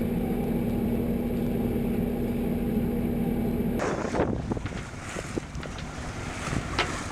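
Boat engine running at a steady hum, which cuts off abruptly about four seconds in. It gives way to wind and splashing water with a few sharp knocks.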